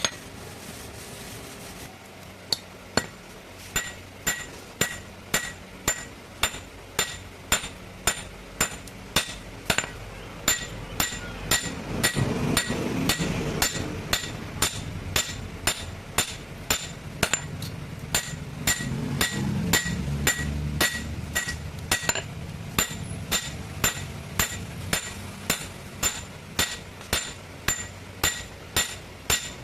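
Hand hammer striking metal on an anvil in a steady rhythm of about two blows a second, each blow ringing with a clear metallic tone.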